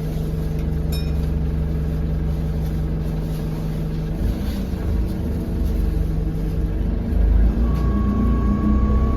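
Euro 6 Alexander Dennis Enviro200 bus's diesel engine running steadily, then picking up as the bus accelerates near the end, when a thin rising turbo whistle comes in; the uploader puts the whistle down to a turbo leak.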